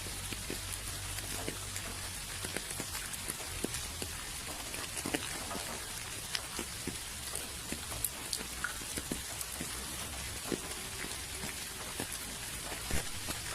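Rain falling steadily: an even hiss with many individual drops ticking sharply on a hard surface.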